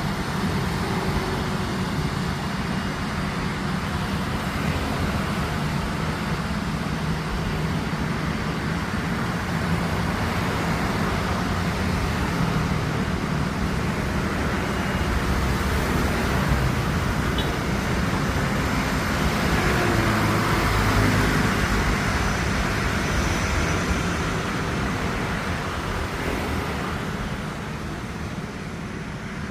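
Airliner's engines running steadily as the plane taxis and turns around on the ground, a constant rumble that swells about two-thirds of the way through and then eases off.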